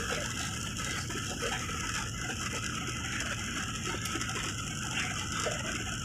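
Steady cabin noise inside a jet airliner in flight: the engines and rushing air make an even roar, with a few faint scattered sounds over it.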